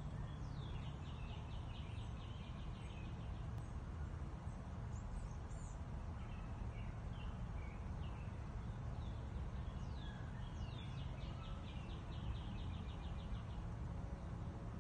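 Songbirds calling outdoors: two rapid trills of short repeated notes, one near the start and one near the end, with scattered chirps and whistles between them. Underneath is a steady low rumble.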